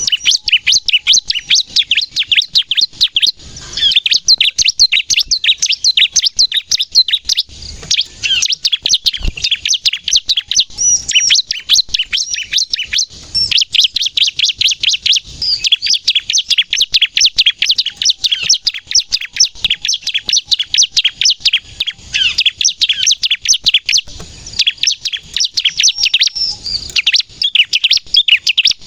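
Bar-winged prinia (ciblek) in full song, firing off long, rapid strings of sharp, high chirps, many to the second, with only brief breaks between phrases.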